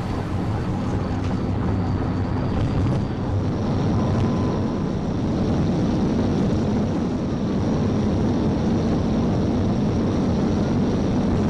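Steady engine, tyre and wind noise of a police patrol car driving at high speed, heard from inside the cabin.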